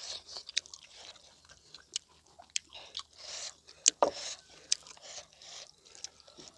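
Close-up eating sounds: a person chewing and biting food, with wet mouth clicks and short crunchy bursts, and one sharp snap about four seconds in.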